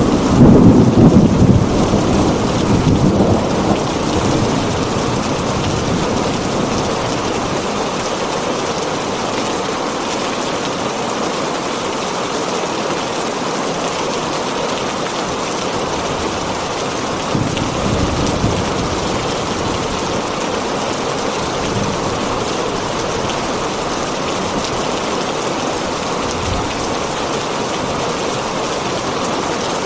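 Heavy rain falling on a tin roof, a steady hiss throughout. A roll of thunder fades over the first few seconds, and a second, smaller low rumble comes a little past halfway.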